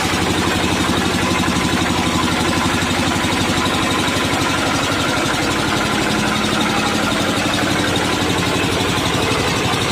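Tractor engine of a baby roller (small road roller) running steadily with an even pulse, a slight change in its tone about halfway through.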